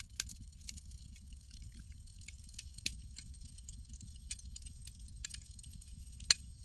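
Campfire crackling: scattered sharp pops and snaps over a low steady rumble, with three louder pops at the start, about three seconds in and near the end.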